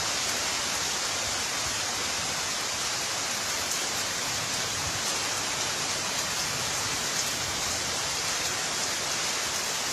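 Heavy tropical rain pouring down steadily in a thunderstorm, an even, unbroken hiss with no thunder.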